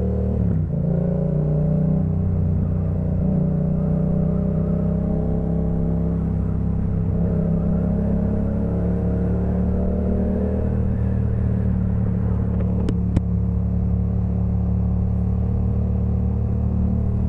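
A 2018 Yamaha MT-07's 689 cc crossplane parallel-twin running under way through a Jeskap K4 full exhaust system, its note fairly steady. There is a brief break in the engine note under a second in, after which the pitch eases slowly. Two sharp clicks close together about two-thirds of the way through.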